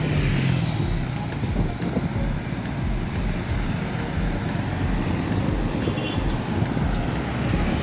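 Steady rush of wind and traffic noise while riding a bicycle, with wind buffeting the microphone.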